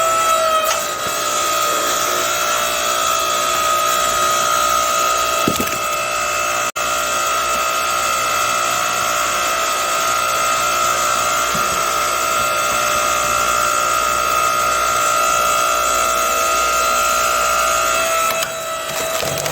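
Hydraulic log splitter running with a steady high whine as its ram drives into a log. Near the end the whine shifts and the wood cracks as it starts to split.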